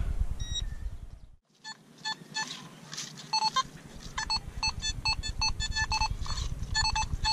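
Metal detector giving short, same-pitched beeps in irregular bursts as its coil is swept over the ground, with low wind rumble on the microphone. The beeping starts about two seconds in, just after a brief dropout.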